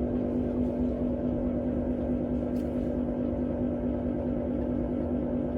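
Electrolux PerfectCare 800 laundry machine running with a loud, steady hum at one fixed pitch over a low rumble: the abnormal loud noise its owner is reporting.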